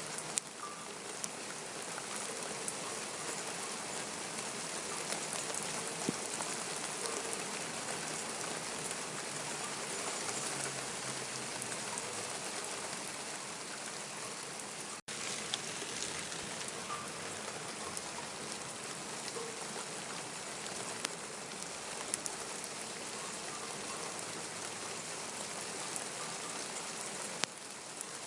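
Steady rain falling, with scattered raindrop ticks on hard surfaces. The sound cuts out for an instant about halfway through.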